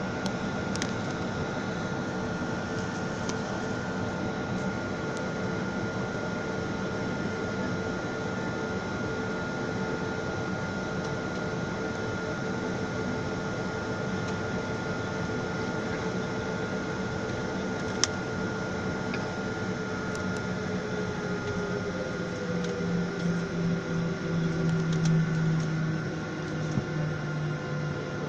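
Airliner engines heard from inside the passenger cabin: a steady hum with held whining tones. About 22 seconds in, the engine note shifts and drops lower, with a brief swell in level; there is a single sharp click near the middle.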